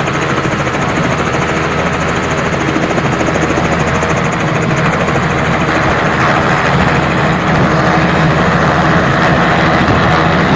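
Helicopter running steadily, its rotor and engine noise close and loud, swelling slightly over the last few seconds.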